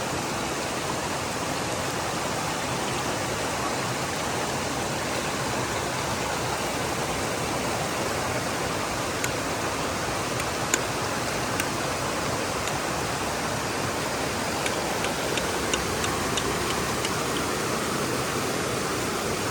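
Creek water rushing steadily, with a few short sharp ticks in the second half.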